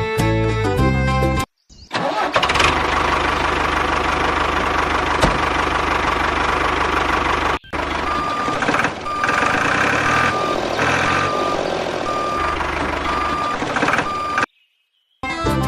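Vehicle engine running with a steady low hum. After a short break, it continues under a reversing alarm beeping on and off at an even pace, about once a second.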